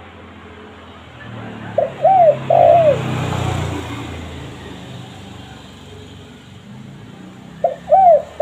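Spotted dove (tekukur) cooing: a short note then two arched coos about two seconds in, the same phrase starting again near the end. A low background rumble swells under the first phrase.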